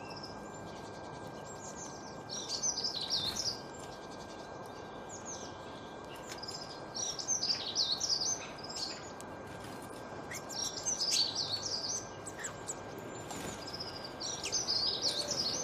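A small songbird singing short, fast, high warbling phrases about five times, with pauses between them, over a steady background hiss.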